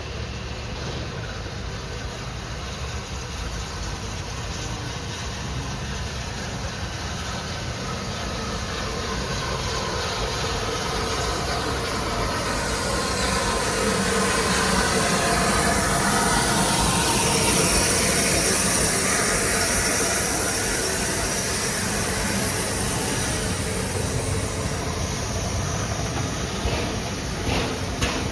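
A train passing through the station, growing louder to a peak about two-thirds of the way through, then easing off, with a quick run of regular clicks near the end.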